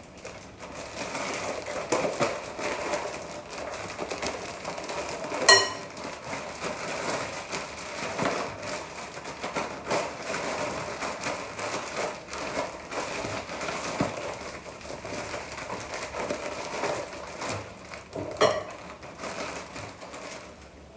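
Kitchen handling noise: continuous rustling, crackling and scraping with small clicks, and two sharp ringing metallic clinks, one about five seconds in and one near the end.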